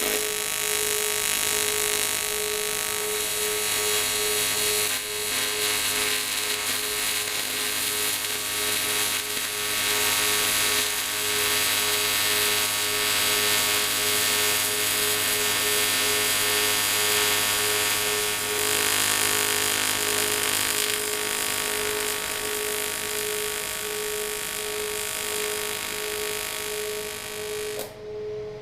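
TIG welding arc on cast aluminium, run on AC: a steady buzzing hiss that lasts about 28 seconds and cuts off suddenly near the end, over the steady hum of the TIG machine.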